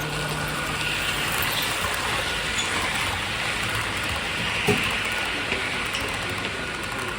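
Model train running on the layout track: a steady rolling rush that swells and eases as it passes, with one sharp click a little past halfway.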